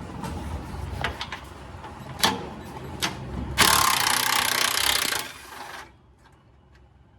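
A few sharp metal clanks, then an impact wrench hammering for about a second and a half on a rusted K-member bolt, stopping abruptly.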